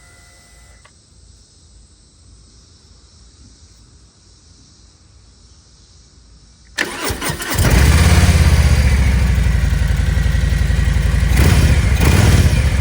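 Harley-Davidson Milwaukee-Eight 114 V-twin on its stock factory exhaust, cold-started: after a quiet stretch the starter cranks briefly about two-thirds of the way in, the engine catches and settles into a loud, even fast idle.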